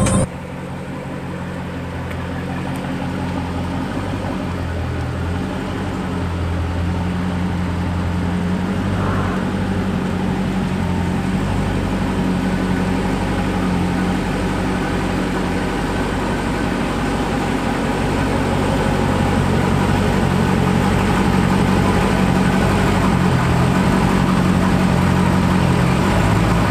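Dodge Charger Hellcat's supercharged 6.2-litre Hemi V8 running steadily on the road, through an exhaust with the mid-mufflers deleted and the exhaust valves held open; it grows slightly louder over the first several seconds.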